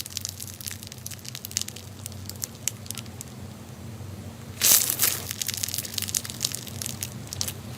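Slime being handled and squeezed close to the microphone, giving many small sharp crackles and pops. A louder burst of crackling comes about four and a half seconds in.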